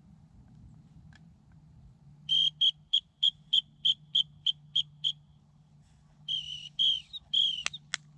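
Dog-training whistle blown in about ten short, quick toots, then three longer blasts, the last ones dropping slightly in pitch. The run of rapid toots is the usual recall signal calling a retriever in. Three sharp clicks come near the end.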